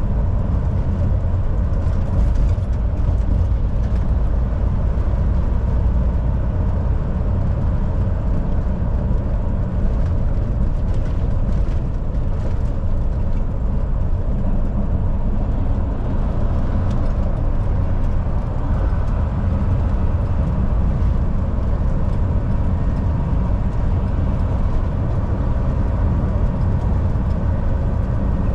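Volvo VNL 760 semi truck cruising at highway speed: a steady, low diesel engine drone blended with tyre and road noise.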